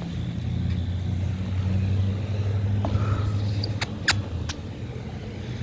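Outdoor air-conditioning condensing unit running: a steady low compressor-and-fan hum, with a few sharp clicks about four seconds in.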